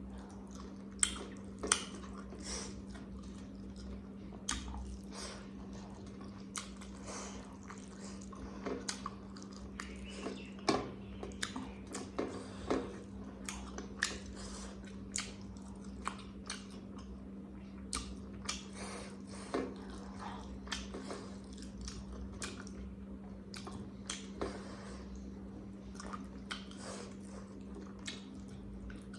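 Close-miked eating: a person chewing mouthfuls of food with wet smacking and many irregular sharp clicks, over a steady low electrical hum.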